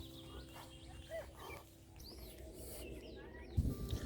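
Faint, scattered bird calls and chirps, with a brief low rumble near the end.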